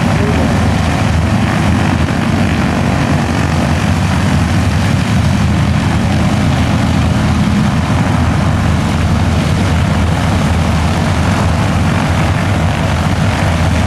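F4U Corsair's Pratt & Whitney R-2800 eighteen-cylinder radial engine running steadily and loud, with a low, even drone.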